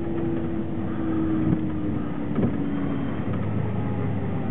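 2003 Chevrolet S-10 pickup's rear-end driveline whine, a siren-like tone that slowly falls in pitch and fades out about three seconds in, over steady road and cab noise with a few light rattles. It is a noise the truck makes in freezing weather.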